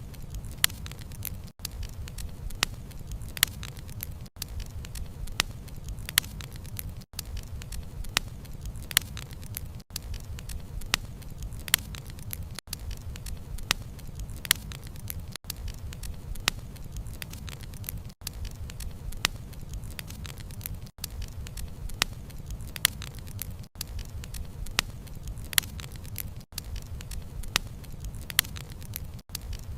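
Wood fire crackling: a steady low rumble of flame with frequent sharp pops and snaps of burning wood. The sound drops out for an instant about every three seconds.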